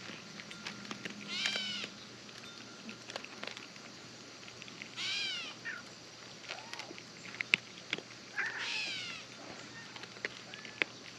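Domestic cat meowing three times, a few seconds apart, each call rising then falling in pitch. A few short sharp clicks or taps fall between the calls.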